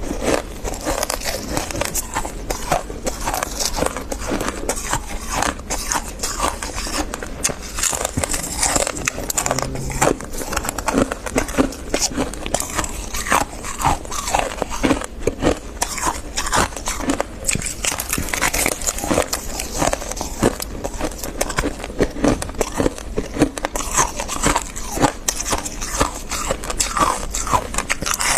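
Close-miked chewing of dry, crispy freezer frost: a dense, continuous run of crisp crunches and crackles.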